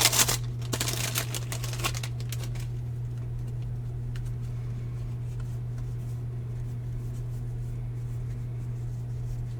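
Baseball cards being handled with a pack wrapper crinkling for about the first two seconds, then only a steady low hum.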